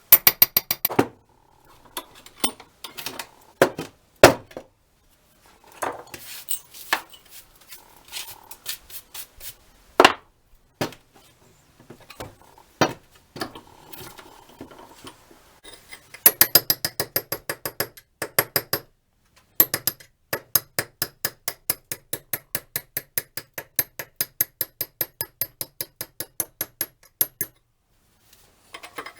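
Metal clinking and tapping from hand work on an old monkey wrench: scattered sharp knocks at first, then a long run of quick, even taps, about three or four a second, through most of the second half.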